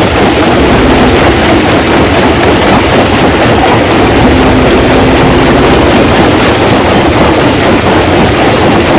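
Stone crushing machine running under load, rocks rattling and clattering through it in a steady loud din.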